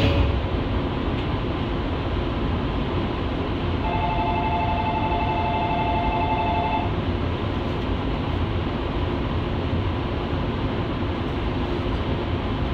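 JNR 115 series electric train running, a steady rumble of wheels and running gear heard from on board. About four seconds in, a steady two-note tone sounds for about three seconds, then stops.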